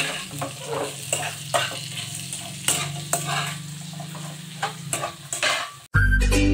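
Dried fish (daing) frying and sizzling in a wok while a spatula stirs it, with repeated scraping strokes against the pan. Music cuts in suddenly near the end.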